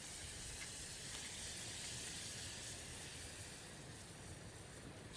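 Food sizzling as it fries in a pan over a campfire: a steady hiss that swells slightly in the middle, with a short click at the very end.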